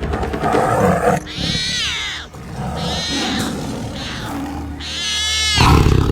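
Wild animal calls over a music score: two loud, strained calls that arch up and down in pitch, one about a second and a half in and a louder one near the end.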